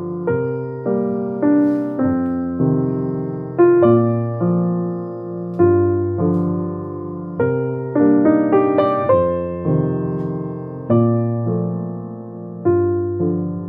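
Slow, gentle solo piano music: chords struck and left to ring and fade, with a short run of quicker notes about two thirds of the way through.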